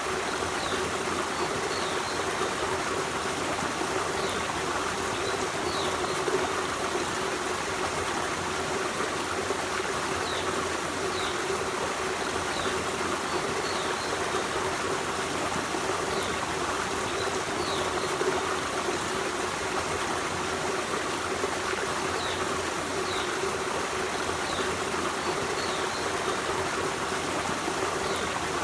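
Forest stream running steadily over rocks, an even rush and babble of water. Faint short high chirps recur every second or two above it.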